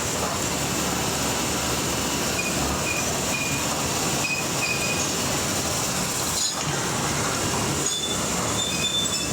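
Steady, loud noise of heavy machinery or vehicle engines, with short faint high-pitched squeals now and then.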